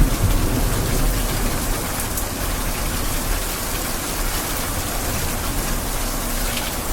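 Steady rain pouring down, an even hiss of many drops with a low rumble underneath.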